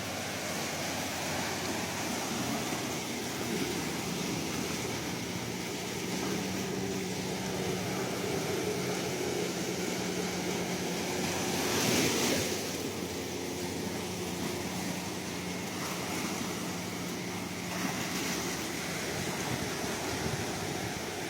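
Sea waves washing in, a continuous rushing surf with one louder wave breaking about twelve seconds in.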